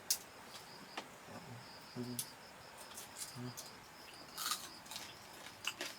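A cricket chirps steadily, a fast high pulsing trill that runs on without pause, with scattered sharp clicks and small clatters from people eating at a meal.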